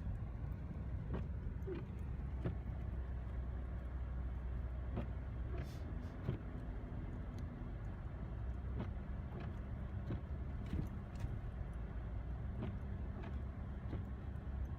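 A vehicle engine running steadily with a low hum that shifts pitch slightly a couple of times, with scattered short clicks and knocks.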